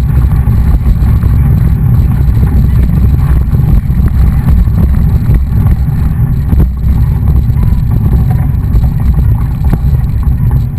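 Heavy, unbroken wind rumble on the microphone of a moving mountain bike, with faint knocks and rattles from the ride over rough ground.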